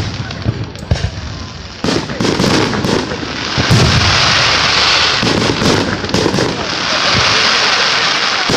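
Fireworks display: a string of booming shell bursts, sometimes several in a second, over a continuous crackling hiss that grows louder a little under four seconds in.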